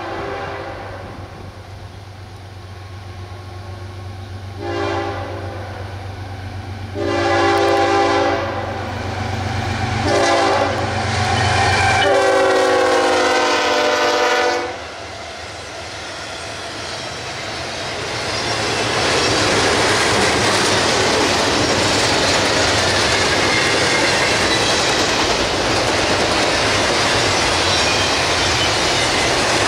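CSX freight train's diesel locomotive horn sounding four blasts for the grade crossing, the last the longest and dropping in pitch as the locomotive passes. The train then rolls by with steady rumble and clickety-clack of wheels over rail joints.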